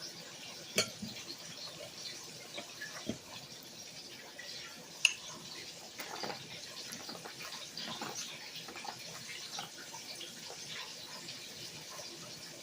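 Close-up mouth sounds of someone eating fried chicken: chewing, wet smacking and sharp little clicks, the loudest about a second in and again about five seconds in.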